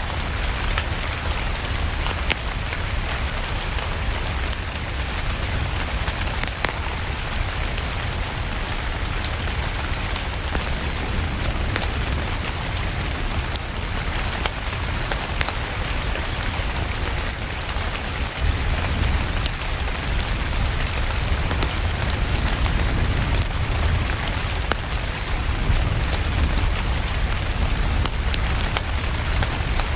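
Steady rain with a low rumble underneath and scattered sharp clicks, mixed with the crackle of a wood fire. The rain grows a little louder about halfway through.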